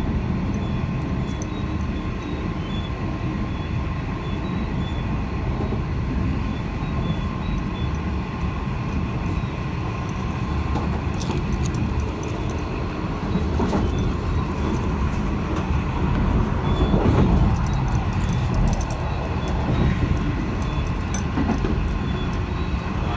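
V/Line H set passenger carriage running along the line at speed, heard from inside: a steady rumble of wheels on rail with a few faint steady tones above it. Partway through, a run of sharp clicks comes in and the ride gets a little louder for several seconds.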